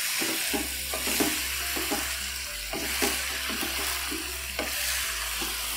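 Raw chicken pieces sizzling in hot oil in a non-stick karahi while a wooden spoon stirs them, with repeated irregular scrapes and knocks of the spoon against the pan. The chicken is being fried until it turns from pink to white.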